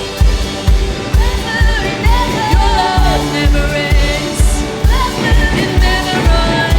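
Live worship music: a band with singing over a steady kick drum beat, about two beats a second.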